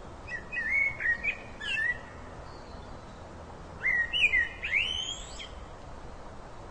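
A songbird singing two short phrases of whistled, chirping notes that slide up and down in pitch. The first phrase starts about half a second in and the second about four seconds in, over a steady background hiss.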